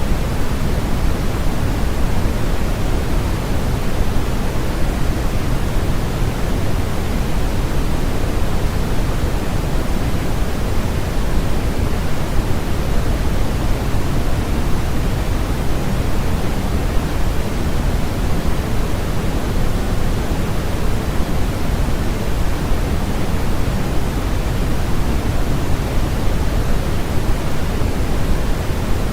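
Steady synthesized noise played as a sleep sound: one even, unchanging rush with no tones or events in it, strongest in the bass and thinning toward the highs, so deeper than flat white noise.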